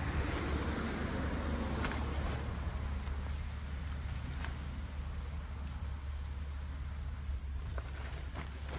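Insects trilling steadily in a high, unbroken tone that shifts up in pitch about six seconds in, over a low rumble of road traffic, with a vehicle passing on the nearby road in the first couple of seconds.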